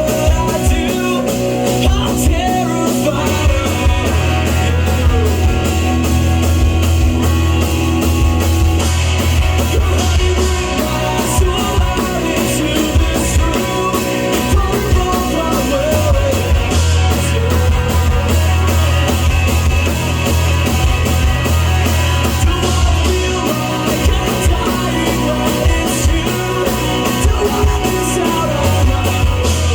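A rock band playing live, loud and full: distorted electric guitars, bass and a steady fast drum beat with a lead vocal singing over them.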